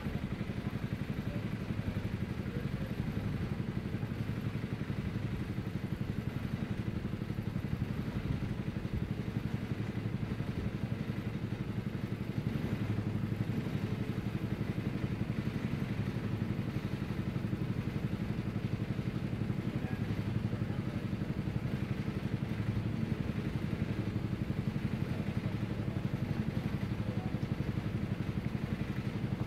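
Crop-spraying helicopter's engine and rotor running steadily: a dense low drone with a rapid beat and no let-up.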